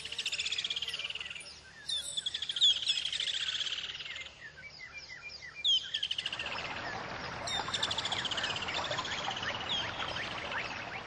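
Birds singing: a fast falling trill, about two seconds long, repeated several times, with scattered short chirps around it. A steady hiss builds under the birdsong from about six seconds in.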